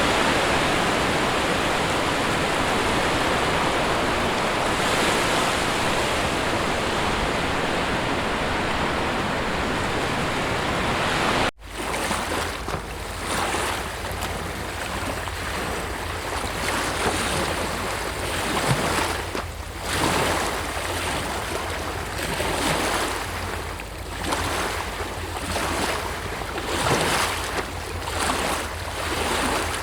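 A steady, dense rush of water, then an abrupt cut to sea waves surging and washing on a shore in repeated swells, with wind rumbling low on the microphone.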